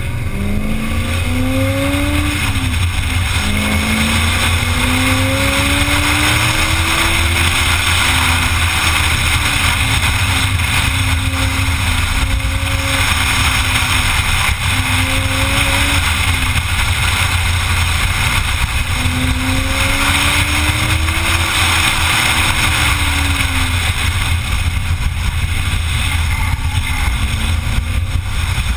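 Car engine under hard track driving, its pitch climbing with the revs and dropping at gear changes about two and three seconds in, steadier through the middle and climbing again near twenty seconds in, over a constant low rumble. Heavy wind noise on the outside-mounted microphone.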